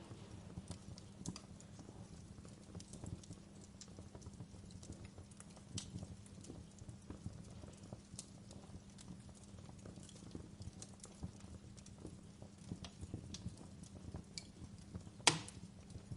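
Wood fire burning in a fireplace, crackling with irregular small pops and one sharp, loud pop about a second before the end.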